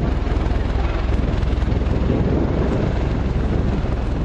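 Aircraft engine running, a steady low drone with a fast, even pulse.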